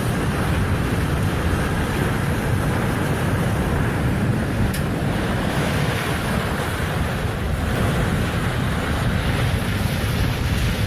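Strong wind rushing and buffeting the microphone, with the steady rush of waves.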